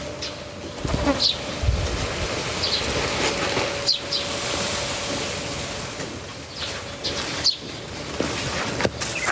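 Small songbirds giving short, high chirps here and there over a steady buzzing hum, with a couple of low thumps about a second in.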